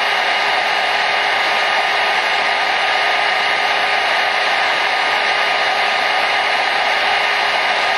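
Hair dryer running steadily: an even rushing blow of air with a faint motor hum, unchanging throughout.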